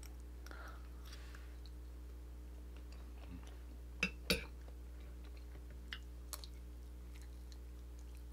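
A person chewing food, with two sharp clicks of a metal fork and spoon against a plate about four seconds in, over a steady low hum.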